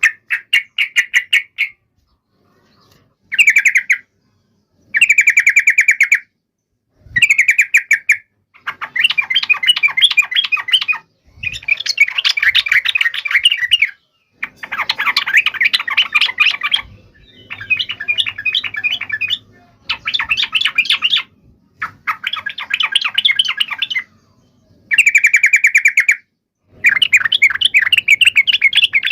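Yellow-vented bulbul (trucukan) calling in rapid chattering bursts of fast repeated notes, a dozen or so bouts of one to three seconds with brief gaps between. These are the aggressive 'fighting' calls that keepers play as a lure to make other bulbuls answer.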